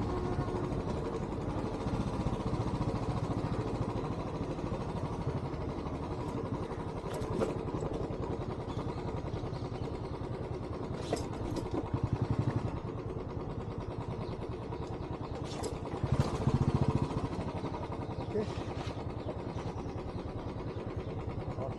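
Royal Enfield Bullet's single-cylinder engine running at a steady, unchanging speed, without revving, with a few short clicks over it.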